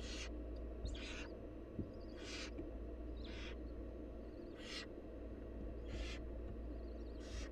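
Barn owl nestlings' begging calls: a hoarse hiss about a third of a second long, repeated roughly once a second, over a steady low hum.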